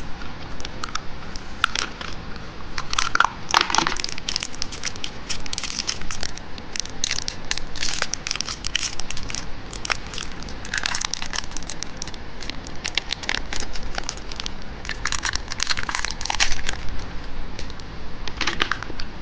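Plastic candy wrapper crinkling and crackling in irregular bursts as it is handled.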